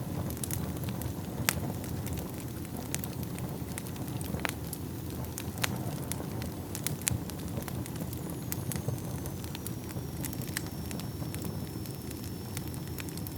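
Wood fire burning in a fireplace: a steady low rumble of flames with irregular sharp crackles and pops, several louder pops among them. A faint, thin high whistle runs through the second half.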